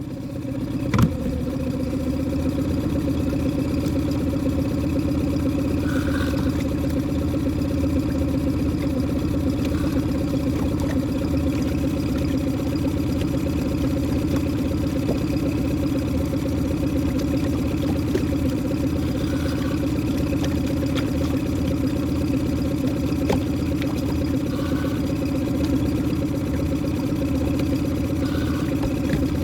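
Boat engine running steadily at a constant speed, with a single click about a second in.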